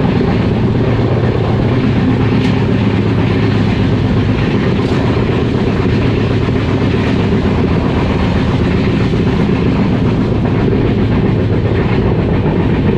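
Passenger train coach running along the track, heard from inside: a steady, loud rumble of wheels on rails.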